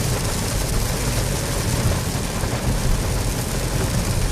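Heavy thunderstorm rain pouring steadily, with a low rumble underneath.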